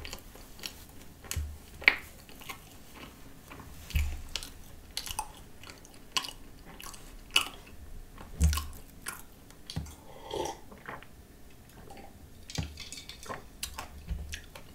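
A person chewing a mouthful of croissant with whipped cream: irregular soft crunching and mouth clicks.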